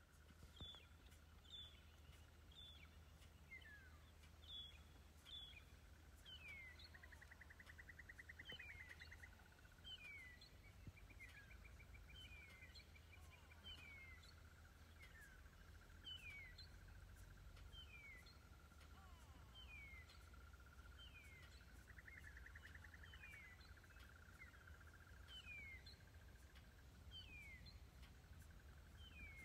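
Faint bush ambience: a bird gives a short falling whistle over and over, roughly once a second, over a faint steady high tone and a low rumble. Twice a short buzzy trill joins in.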